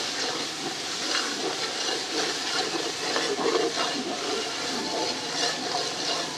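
Tomato-onion masala sizzling in hot oil in a large aluminium pot while a metal ladle stirs it. This is a steady frying hiss, and the masala is fully fried (bhuna), ready for the potatoes.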